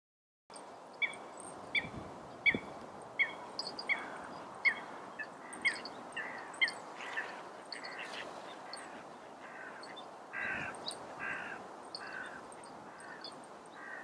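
A bird calling: a series of short, sharp calls, about one a second, that later turn looser and softer.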